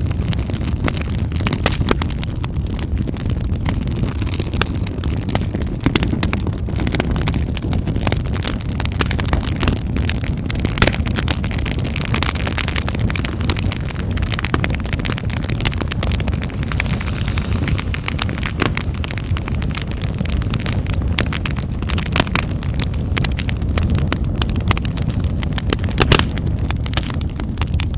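Wood fire in a fireplace crackling, with frequent sharp pops and snaps over a steady low rush of the flames.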